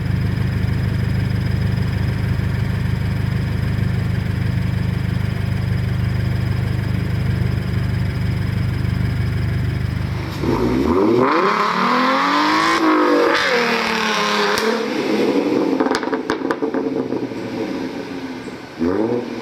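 Car engine with a steady low drone for about ten seconds, then revved up and down several times in pitch.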